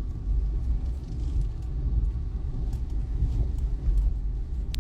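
Low steady rumble of a car driving, with a few faint clicks and one sharp click near the end.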